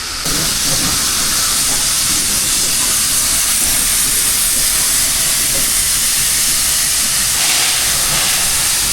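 Steam locomotive venting steam: a loud, steady hiss that comes on suddenly about a quarter second in and broadens, reaching lower in pitch, about seven and a half seconds in.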